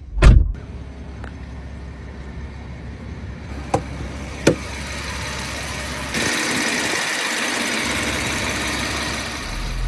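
A loud thump just after the start, two light clicks around four seconds in, then from about six seconds the steady rushing hum of a Rolls-Royce engine running, heard in its engine bay.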